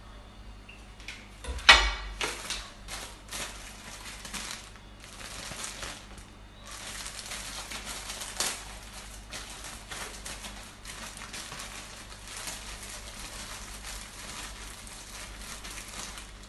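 Kitchen handling noises: a sharp knock a little under two seconds in, a few lighter knocks, then from about seven seconds in a long, steady rustling noise.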